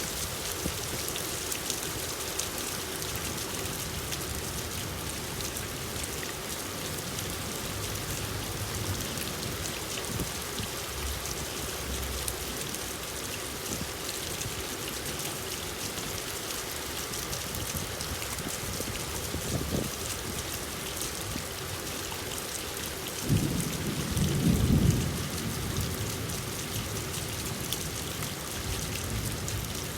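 Steady rain, a dense hiss of falling drops. About three quarters of the way through, a low rumble of thunder swells for two or three seconds.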